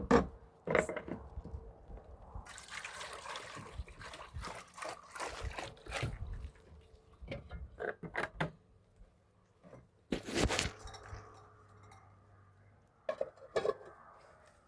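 Water splashing and dripping in irregular bursts during hand washing, with a louder splash about ten seconds in.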